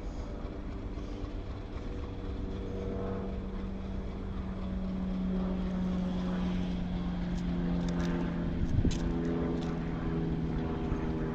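Diesel locomotive engine running, a steady drone that grows louder, then drops in pitch about nine seconds in. There is a sharp click just before the drop.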